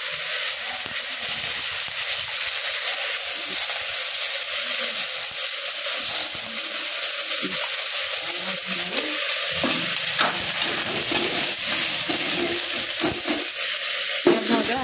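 Pieces of pointed gourd frying in hot oil in a kadai, a steady sizzle with a few light knocks.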